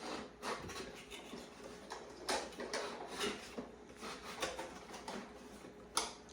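Irregular light clicks, taps and rustles of a plastic toy truck and its cardboard box and packing being handled, with one sharper knock about six seconds in.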